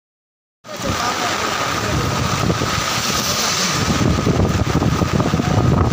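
Heavy rain hissing, with wind buffeting the phone microphone in low gusts; it cuts in suddenly about half a second in, after silence.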